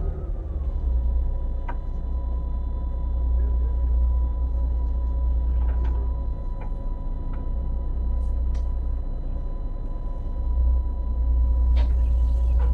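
Boat's engine running with a deep steady rumble and a steady whine that drops slightly in pitch just after the start, with a few sharp knocks.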